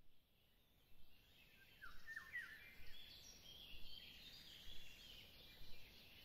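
Birds chirping faintly, short rising and falling calls about once a second, over a quiet outdoor background hush.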